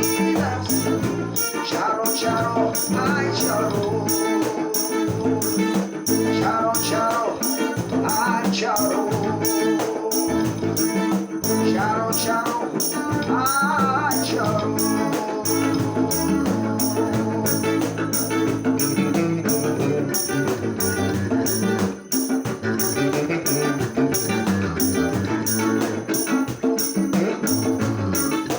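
Ensemble music: guitar accompaniment with a steady shaken-percussion beat and a wavering melody line over it, part of a song sung in Farsi.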